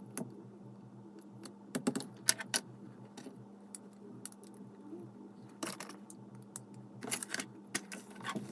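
Lego pieces being handled and pressed together: scattered small plastic clicks and rattles, bunched about two seconds in and again near the end, over a steady low hum.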